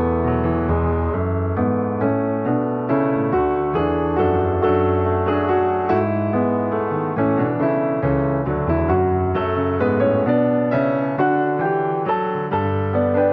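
Background piano music, a calm melody of struck notes over held bass notes.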